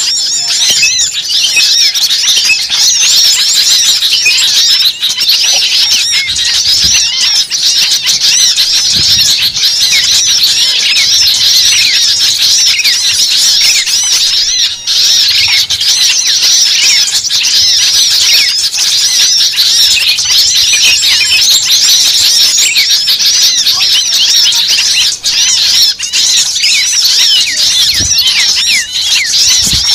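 Bird-lure recording of a noisy small-bird commotion: many small birds calling at once in dense, overlapping high-pitched chirps and squeaks without a break.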